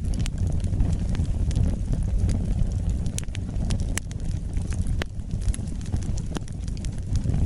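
Wood fire burning: a steady low rumble of flames with scattered sharp crackles and pops from the burning wood.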